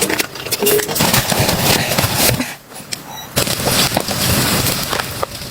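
Dense, irregular crackling and clicking, easing off briefly in the middle and then picking up again.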